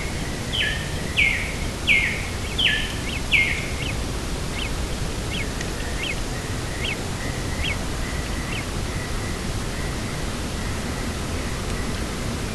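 A bird calls repeatedly, a string of short downward-sliding notes, loud at first and then fainter and shorter until they stop after about eight seconds. Steady wind noise runs underneath.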